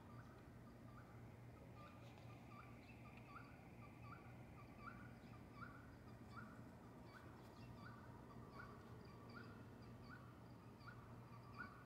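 Faint bird calls: a short rising note repeated evenly about every two-thirds of a second, over a steady low hum.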